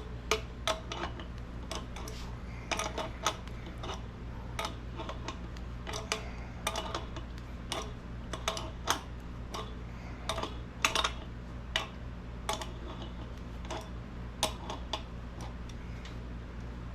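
Irregular metallic clicks and clinks of hand work on an old sandblaster tank's fittings and handle, over a steady low hum.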